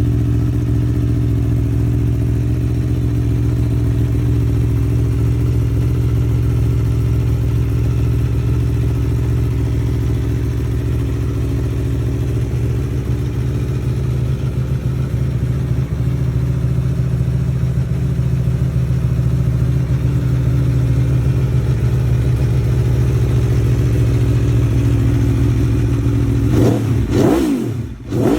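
2025 Aprilia Tuono V4's V4 engine idling steadily through an Akrapovič exhaust, then revved in quick blips that rise and fall sharply near the end.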